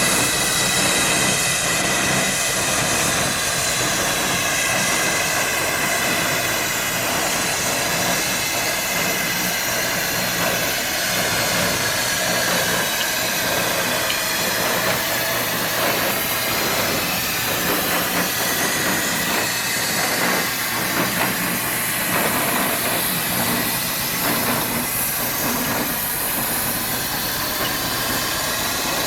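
Steam traction engine running with a steady hiss of steam.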